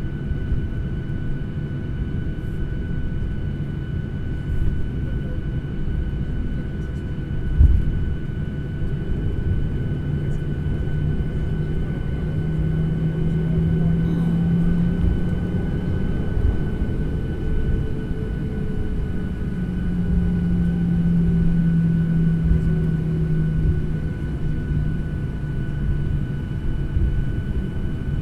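Airliner cabin noise: a steady low engine and airflow rumble with a thin steady whine above it. A deeper hum swells twice and fades, and there is a single thump about seven and a half seconds in.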